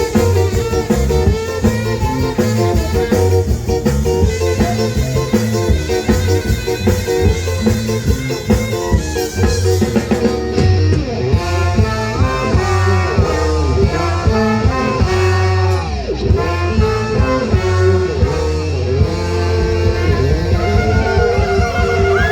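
Live ska band playing an instrumental passage: drum kit, a steady bass line, guitar and horns.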